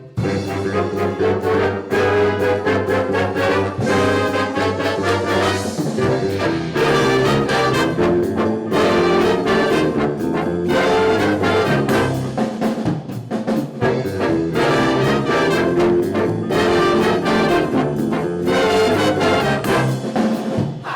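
Student band music led by brass, playing with regular rhythmic accents and ending on a final chord that dies away at the very end.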